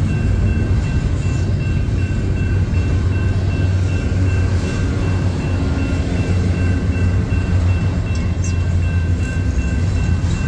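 Double-stack intermodal container train rolling through a grade crossing: a steady heavy rumble of wheels and well cars with a few sharp clanks. The crossing warning bell rings steadily over it.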